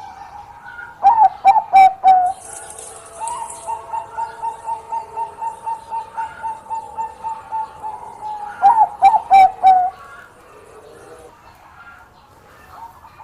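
Zebra dove (Bangkok-type perkutut) cooing. Loud phrases come about a second in and again near 9 seconds, with a long run of quicker, softer notes at about four a second between them.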